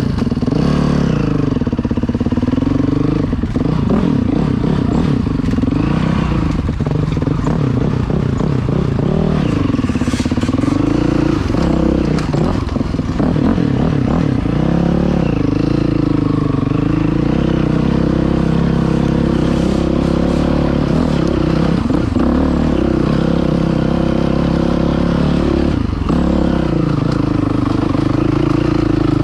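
Dirt bike engine running under way, its revs rising and falling over and over as it is ridden, with some clatter.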